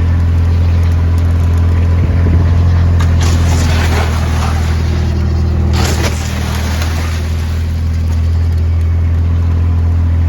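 Vehicle engine running at a steady speed, a constant low hum, with a rougher rushing noise joining it for a few seconds in the middle.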